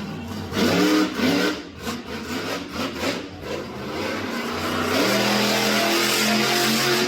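Monster truck engine revving: several quick throttle blips that rise and fall, then a high rev held for about two seconds near the end.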